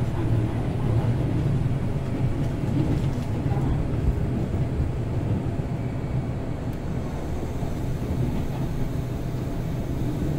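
Hanshin Electric Railway limited express train running, heard from inside the passenger car: a steady low rumble of wheels on rail. It grows a little quieter about halfway through.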